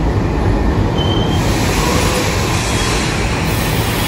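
Railway locomotive running along the track: a steady, loud rumble with rail noise, growing brighter about a second and a half in.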